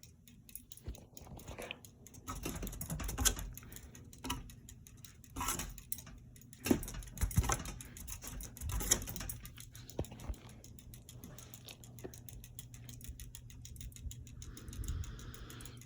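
Hampton Bay Landmark III Plus ceiling fan running on medium, its motor giving a steady low hum, with irregular light clicks and knocks scattered through.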